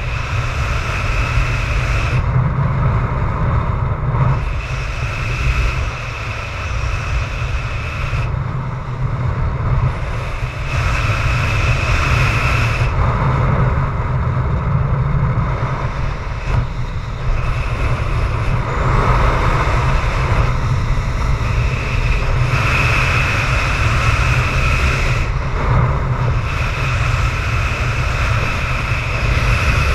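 Very strong wind of about 25 m/s buffeting the microphone: a loud, steady low rumble with a whistling tone that swells and fades every few seconds.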